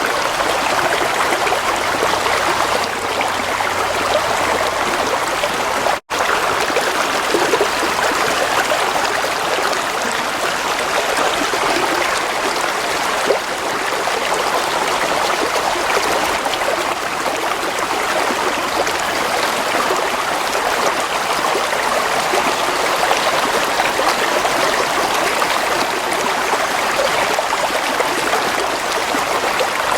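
Gently flowing water running steadily, like a small stream, with a momentary cut-out about six seconds in.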